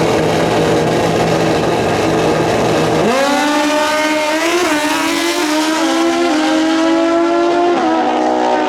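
Drag-racing motorcycle engine running loud, then about three seconds in the pitch jumps up and climbs as it accelerates hard, with short dips in pitch partway through and near the end as it shifts gears.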